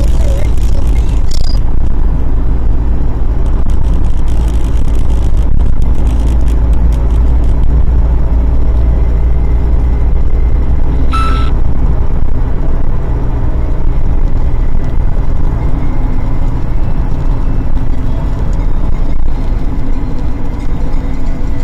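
Steady low rumble of a car driving, engine and road noise as picked up by a dashcam inside the car, with a brief high chirp about eleven seconds in.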